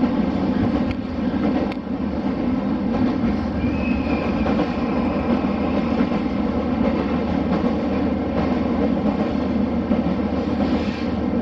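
Diesel railcar running along the track, a steady mix of engine and rolling noise. A faint high squeal lasts about a second, some four seconds in.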